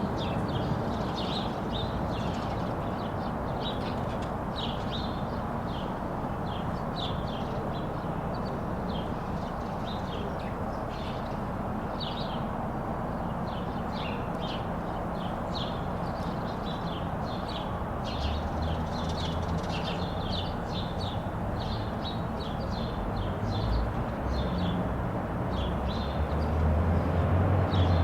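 Small birds chirping in quick, repeated short calls over a steady background hum of city noise. A low rumble builds over the second half and is loudest near the end.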